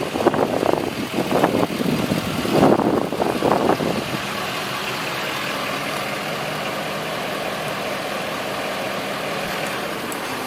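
Ford F450 stakebed truck's engine idling steadily, after about four seconds of uneven, gusty noise.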